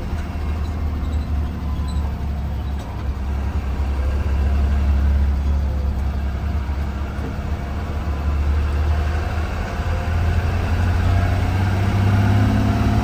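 2020 Blue Bird Vision school bus running, heard from inside the cabin: a steady low engine drone with cabin noise over it, getting a little louder about four seconds in.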